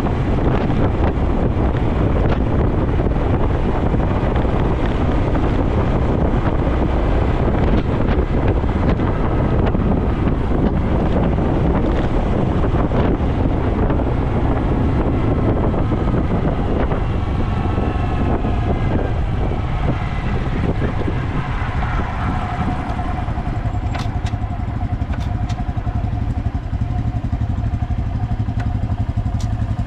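Honda Dax 125's air-cooled single-cylinder engine running through a Takegawa normal-look sport muffler while riding, with heavy wind noise on the microphone. About two-thirds of the way through, the engine note glides as the bike slows, then settles into a steady idle.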